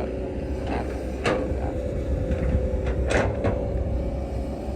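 Heavy construction machinery's engine running steadily, with a few sharp metallic knocks or clanks, about one second in and again around three seconds in.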